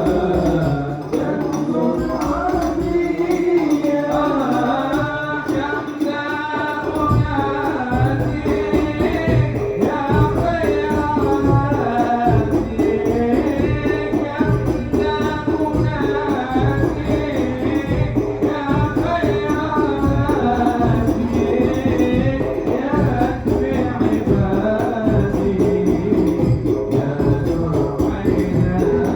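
A man singing an Arabic sholawat, a devotional song in praise of the Prophet, over hand-beaten frame drums keeping a steady rhythm; the drumming comes in fully about seven seconds in.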